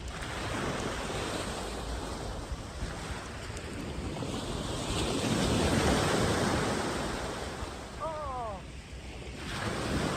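Surf on the beach: small waves washing in, swelling to a peak about halfway through. Near the end comes one short call that falls in pitch.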